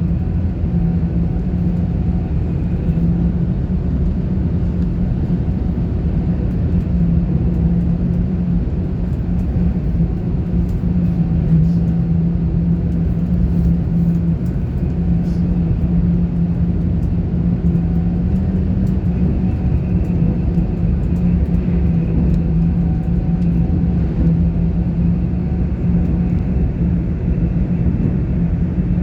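Class 800 IET passenger train running along the line, heard from inside the carriage: a steady rumble of wheels and running gear with a low hum held throughout.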